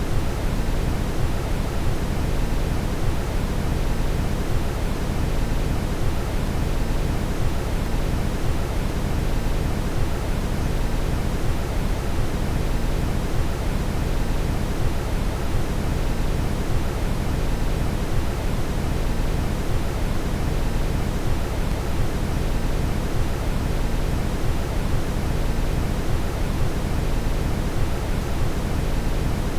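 Steady brown noise: a deep, even hiss strongest in the low end, unchanging throughout.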